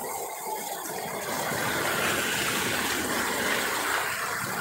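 Steady rain noise under a corrugated roof, swelling louder for a couple of seconds in the middle.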